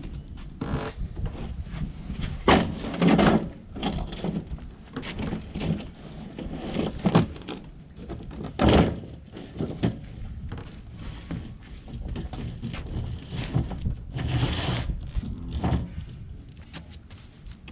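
Irregular knocks, thuds and bangs from hands-on work, with a few louder, longer hits: one about two and a half seconds in, others about seven and eight and a half seconds in, and one near fifteen seconds.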